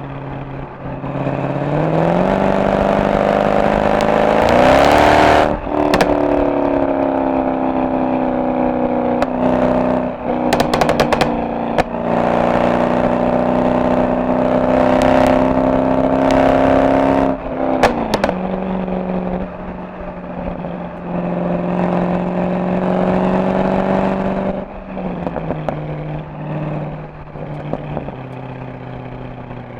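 Mercedes-AMG SL63 V8 exhaust under acceleration: the engine pitch climbs steadily for a few seconds, drops sharply at a gear change, then holds at high revs before stepping down twice as the car slows. Several sharp cracks cut through the exhaust note along the way.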